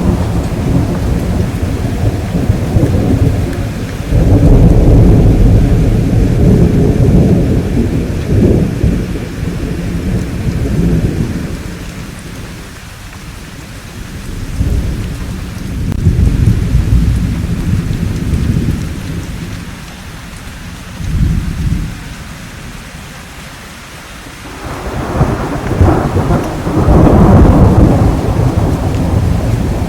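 Thunderstorm: steady rain with deep rolling thunder that swells and fades several times. The loudest rumbles come about four seconds in, again around fifteen seconds, and in the last five seconds.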